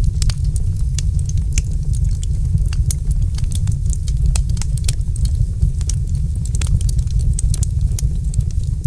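Wood fire crackling in a fireplace: many small, sharp, irregular pops and snaps over a steady low rumble.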